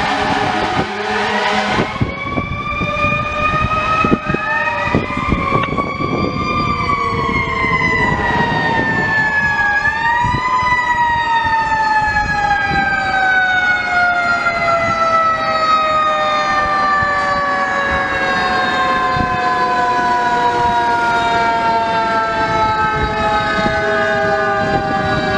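Fire truck's Federal Q2B mechanical siren winding up to a peak, given a second short boost about ten seconds in, then coasting slowly down in pitch, with the truck's engine running beneath.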